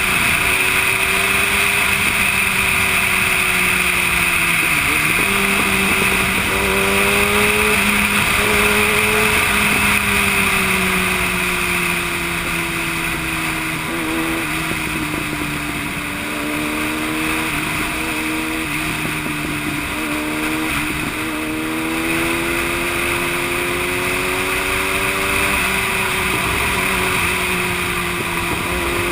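Yamaha YZF-R1 sport bike's inline-four engine running at road speed, its pitch slowly rising and falling with the throttle and briefly dropping twice, about five seconds in and again past twenty seconds, under a steady rushing noise.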